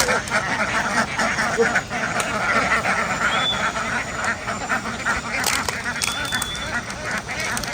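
A large flock of domestic ducks quacking continuously, many calls overlapping into a dense, steady clamour.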